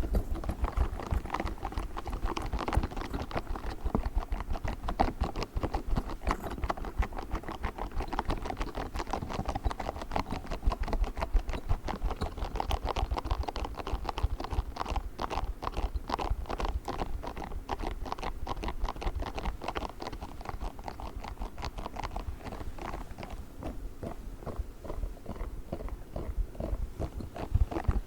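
Pink spiky squishy ball handled close to the microphone: a fast, dense run of small taps and clicks that keeps up throughout.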